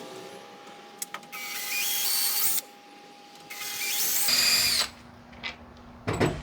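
Power drill with a small bit drilling pilot holes through a skateboard deck, running in two bursts of about a second each, its whine stepping up in pitch as the motor speeds up. A sharp knock comes near the end.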